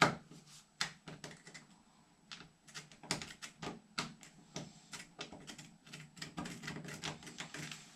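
Irregular sharp clicks and taps, a few a second at times, of a thin tool being poked around in an anchor hole while a toilet is being fastened down.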